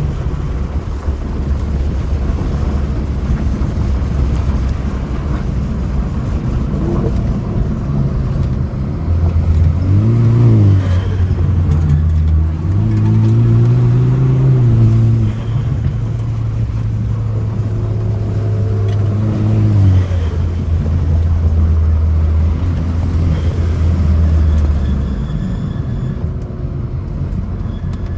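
BMW F30 328i's turbocharged four-cylinder engine pulling along a winding road, its pitch climbing and falling three times as the driver accelerates and lifts, with steady road noise underneath. Near the end the engine note drops away as the car coasts.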